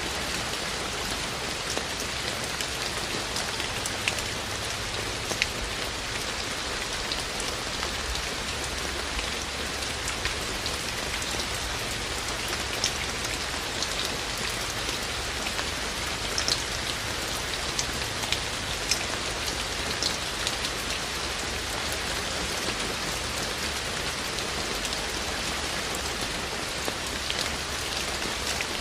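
Steady rain falling, an even hiss with frequent distinct drip and splash ticks of individual drops striking a surface close by.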